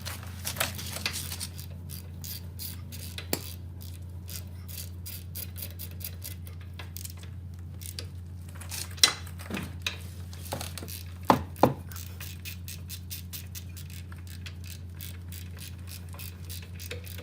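Ratchet wrench on an 18 mm socket clicking in quick runs as it tightens the caliper mounting bracket bolts, with a few louder metallic clinks about nine and eleven seconds in.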